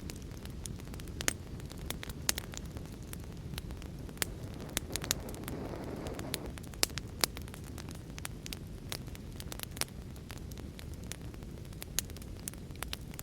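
Wood fire in a fireplace crackling, with frequent irregular sharp pops and snaps over a steady low rush of rain. A soft swell in the rushing rises and falls about five to six seconds in.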